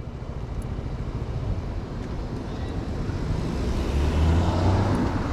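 Honda 125 cc motorcycle engine speeding up, getting louder and rising in pitch, with wind and road noise.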